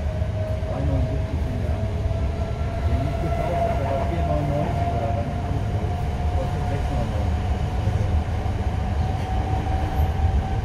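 Electric passenger train heard from inside the carriage: a steady running rumble with a motor whine that rises slowly in pitch as the train gathers speed.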